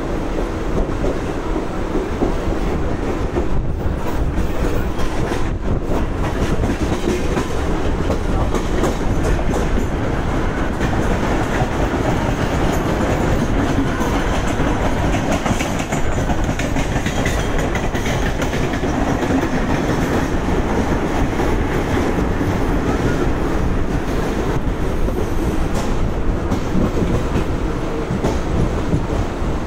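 Mumbai suburban EMU local train running, heard from its open doorway: steady wheel-on-rail noise with the clickety-clack of the wheels over rail joints and crossings.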